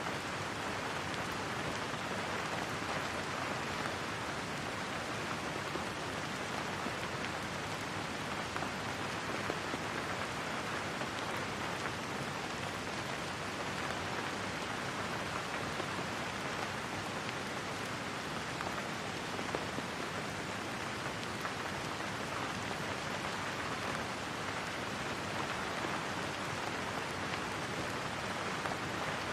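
Steady rain falling on a surface, an even continuous patter with no speech or thunder.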